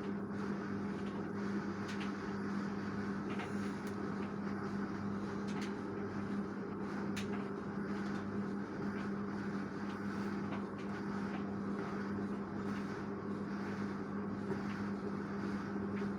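LG direct-drive washing machine running with a steady hum and a few faint light clicks.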